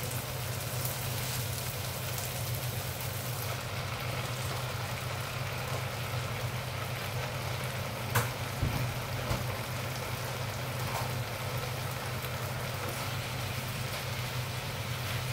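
Tomatoes and shrimp paste sizzling in a wok, a steady frying hiss over a low hum. About eight seconds in there is a sharp knock, followed by a couple of softer knocks, as water spinach goes into the pan and is stirred with a spatula.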